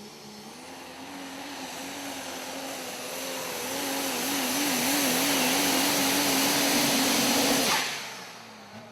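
Super stock diesel pulling truck running at full throttle on a pull, its engine holding a high, steady note whose pitch wavers up and down as the revs bob. It grows louder over about five seconds, then drops away sharply near the end.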